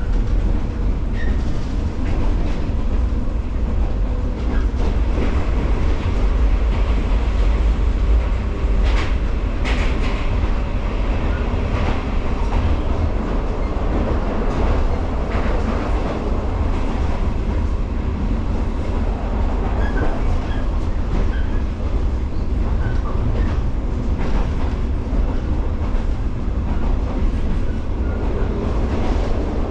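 JR 115-series electric multiple unit running at speed: a steady low rumble of wheels and running gear, with sharp rail-joint clacks a little after 9 s, near 10 s and again around 15 s in.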